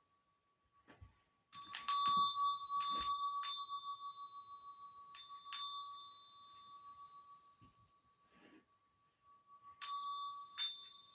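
Small high-pitched bells struck about ten times in quick clusters, each strike ringing and fading over a second or two, with a faint steady tone underneath.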